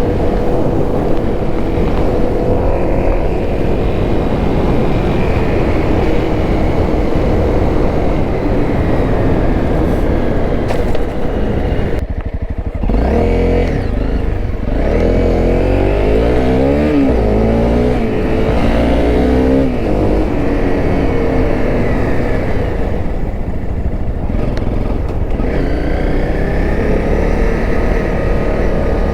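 Honda CRF250L's single-cylinder four-stroke engine running under way. About twelve seconds in the sound briefly drops off, then the engine pitch rises and falls repeatedly for several seconds before settling.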